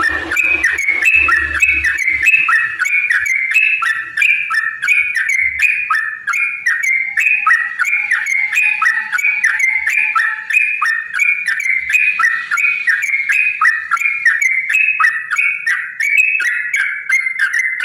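Yellow-vented bulbul (trucukan) singing a long, unbroken string of quick bubbly notes. This is the long rapid song used to provoke other trucukan into answering.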